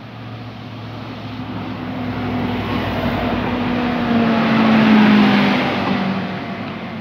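A train passing by, its sound building to a peak about five seconds in and then fading, with a humming tone that drops in pitch as it goes past.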